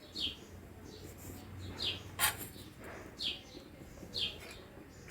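A small bird chirping repeatedly, short falling chirps about once a second, with a single sharp knock about two seconds in.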